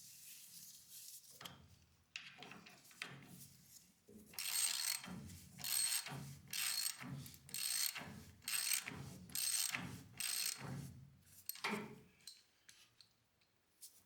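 Hand socket ratchet clicking through about eight repeated strokes, roughly one a second, starting about four seconds in, as longer screws draw the torsion bar cover's bushings in. Lighter handling noises come before the strokes.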